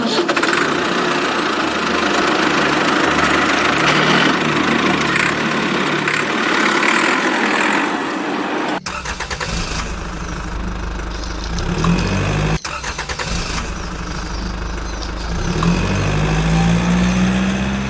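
A motor vehicle engine running, with abrupt cuts about nine and about twelve and a half seconds in. After the first cut it runs deeper, and its pitch rises and falls near the end.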